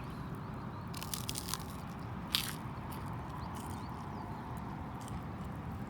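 Someone biting into and chewing food, with crunchy clicks about a second in and a sharper, louder crunch a little after two seconds.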